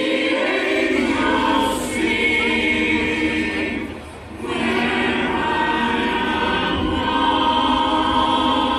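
A choir singing a slow song in long held chords: two phrases, with a break for breath about four seconds in.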